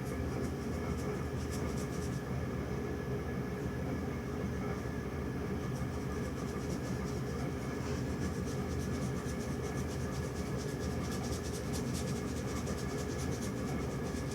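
Brush strokes scratching on canvas, many short strokes coming faster in the second half, over a steady low rumbling hum.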